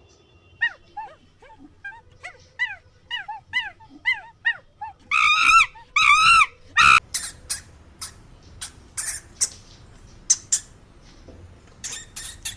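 A dog whimpering and yipping in a rapid string of short, high calls. Two louder, longer yelps come around the middle, followed by a run of short, sharp, noisy sounds.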